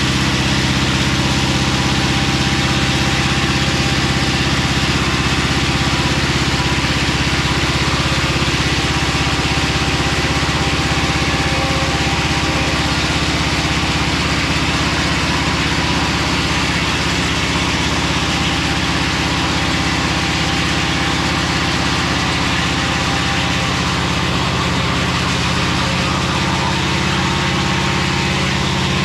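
Mobile Dimension circular-blade sawmill running steadily, its engine note even throughout.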